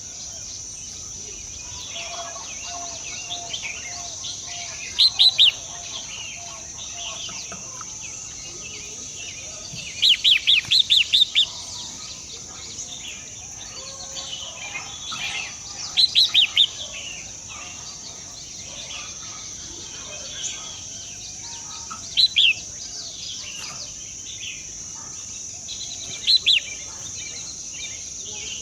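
Birds chirping in short bursts of rapid, high calls, five times, the longest about a second and a half. Under them runs a steady high-pitched drone.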